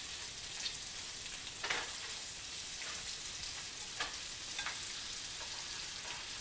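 Mushrooms, sun-dried tomatoes, onion and prosciutto sizzling steadily in a nonstick frying pan as they sweat down. A plastic slotted spatula stirs them, with a few short scrapes against the pan, about two seconds in and around four seconds in.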